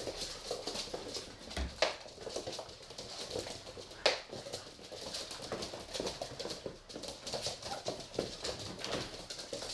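Pit bull puppies playing: steady scuffling with many small clicks, and two sharper knocks about two and four seconds in.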